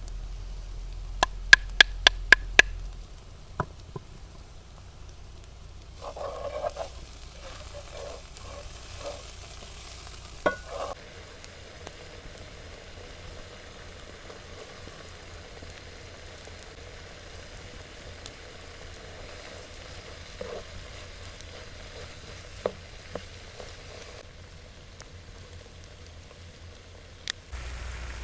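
Food frying in a pan with a steady sizzle, with a quick run of five sharp taps about a second in and a few scattered knocks after that.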